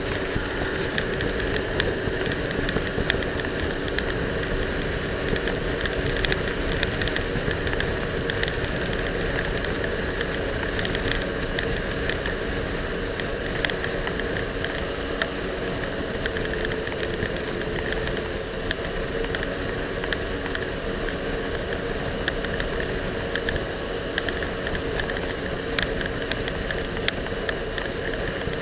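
Jet ski engine running steadily under way, with a constant rush of spray and wind over the microphone and scattered sharp clicks, recorded by a camera loosely attached to the rider's life vest.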